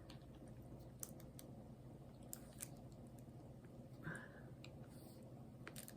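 Near silence with a few faint, scattered clicks: a diamond-painting drill pen tapping resin drills onto the canvas.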